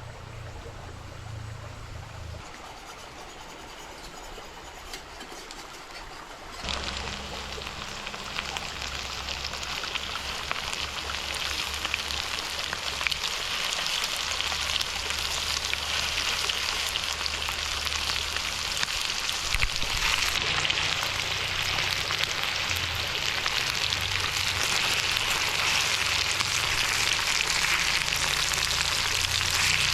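Food sizzling in a hot pan. The sizzle starts suddenly about a third of the way in and grows steadily louder.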